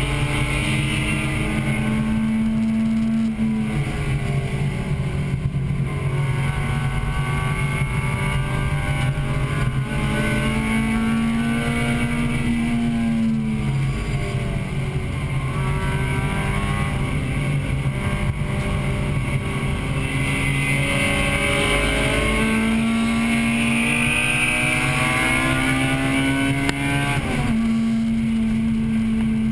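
1998 Acura Integra Type-R's 1.8-litre VTEC four-cylinder engine at racing speed, heard from inside the cabin. The engine note climbs through the revs and drops sharply a few times, as on lifts, braking and downshifts.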